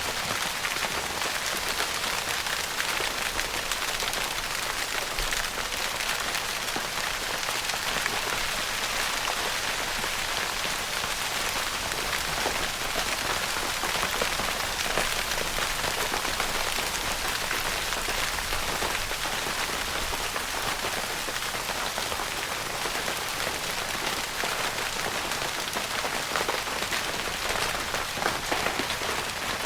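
Steady rain pattering on a tent's fabric roof, a dense even patter of many small drop hits.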